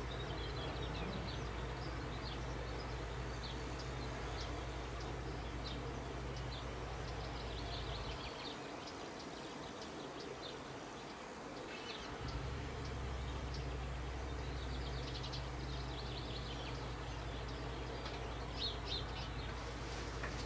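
Small birds chirping in short high calls, scattered throughout, over a steady low hum that drops out for a few seconds around the middle.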